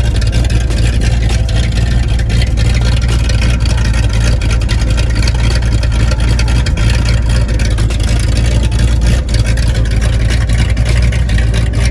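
1979 Ford F-350's engine running with its exhaust chopped off, loud and steady.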